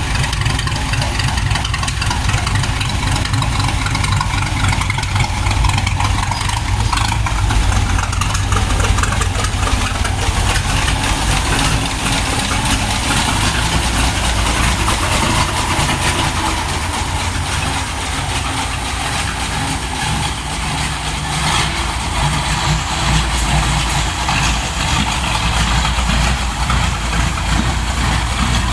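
A car engine idling steadily with a deep low rumble.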